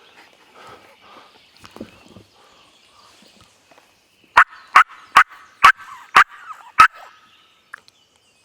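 Hunter's crow locator call blown six times in quick succession, loud harsh caws about half a second apart, used to shock a gobbler into answering.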